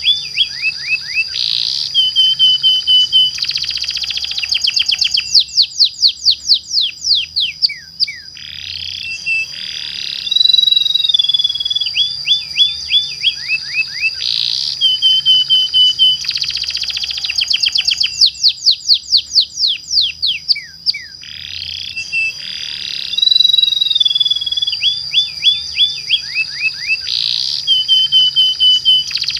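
Domestic canary singing a long, continuous rolling song: a sustained high note under runs of rapid falling trills and buzzy rolls. The same phrase sequence repeats about every thirteen seconds, as a looped lure recording used to trigger other canaries to sing.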